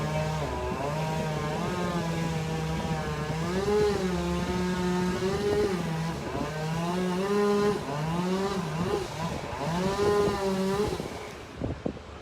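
Chainsaw running at high speed while cutting, its pitch dipping and recovering again and again as it bites into the wood; it stops about eleven seconds in.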